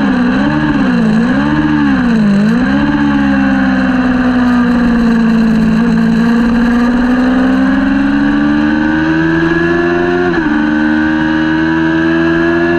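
Kawasaki Ninja 400 parallel-twin race bike engine at racing speed. The revs dip and rise three times in quick succession, sink low, then climb steadily through the gear, with a sudden drop about ten seconds in at an upshift before climbing again.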